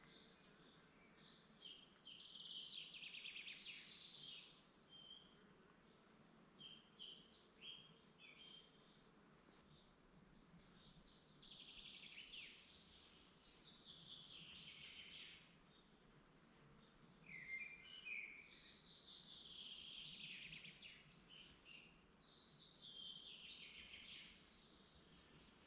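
Woodland songbirds singing, faint: a series of song phrases a few seconds long, each descending in pitch, repeating every few seconds.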